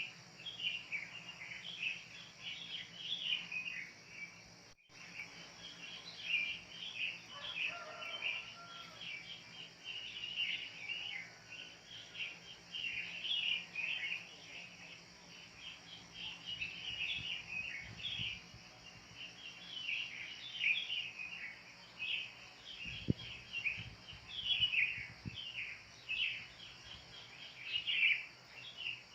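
Wild birds chirping over and over, short falling chirps following one another quickly, over a steady insect hiss.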